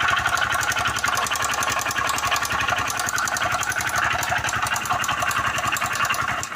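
Motorcycle engine running steadily with a rapid, even knocking, the connecting-rod (big-end) knock of a worn rod bearing.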